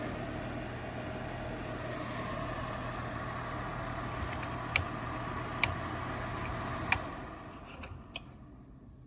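Air Choice 1500W electric space heater's fan running with a steady whir and hum. Three sharp clicks come near the middle, and after the third the hum stops and the fan sound dies away over a couple of seconds.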